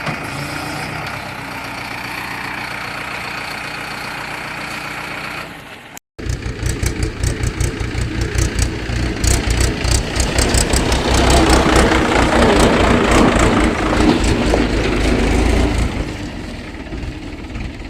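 Tractor engine sound: a steady running drone that cuts off suddenly about six seconds in, followed by a louder, rapidly chugging engine that swells and then eases off near the end.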